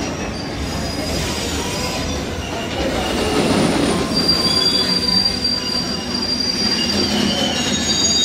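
Passenger train running through the station: a steady rumble of wheels on rail, with a thin high-pitched wheel squeal that strengthens from about four seconds in.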